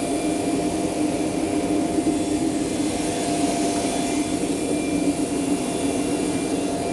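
Boeing 737-300 running on the ground: a steady jet whine with several constant tones over a rush of noise.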